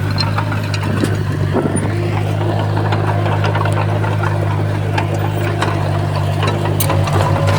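Komatsu D51PX bulldozer's diesel engine running steadily, with scattered clanks and clicks over the low drone.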